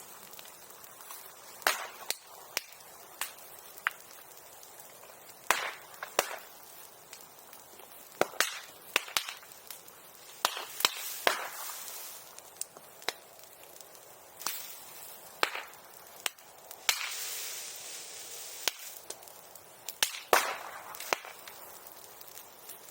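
Bonfire burning bamboo, with about twenty sharp cracks and pops at irregular intervals, like firecrackers. There is a stretch of hissing about two-thirds of the way through.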